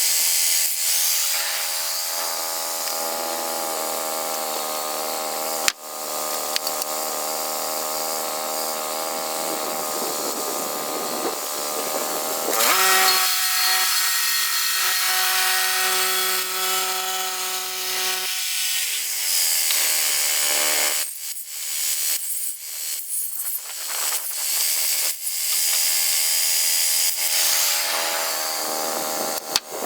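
Sawmill's motor running as it saws through a log, cutting boards. Its pitch shifts about 12 s in, drops away around 18 s, then the saw runs again.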